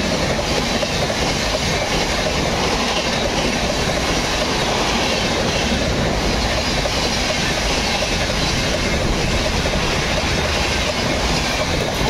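Indian Railways passenger train passing through at high speed: a loud, steady rush of wheels on rail and passing coaches.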